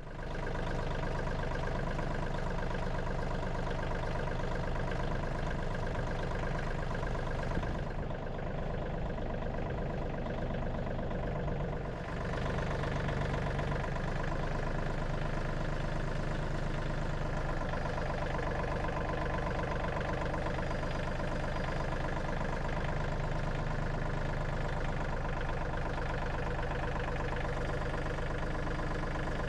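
Tractor engine running steadily at idle, with a slight change in tone for a few seconds partway through.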